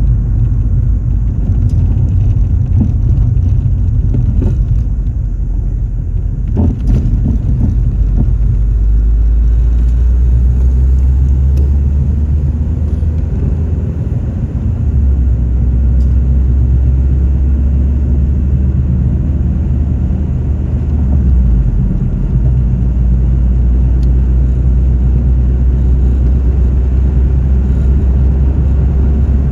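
A car on the move: a steady, loud low rumble of engine and road noise, with a brief knock about seven seconds in.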